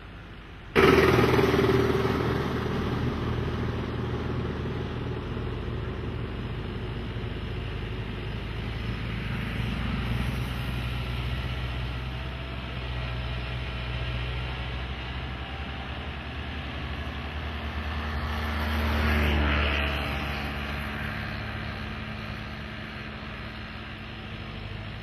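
An engine running steadily, starting abruptly about a second in and swelling louder for a few seconds near the end.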